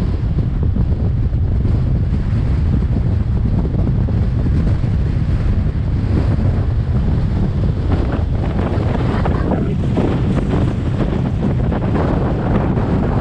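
Strong wind buffeting the microphone: a loud, steady low rumble that gusts stronger and brighter partway through.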